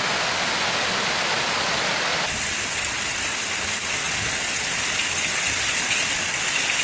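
Heavy rain pouring down in a dense, steady hiss. About two seconds in, the sound changes abruptly and turns brighter and hissier.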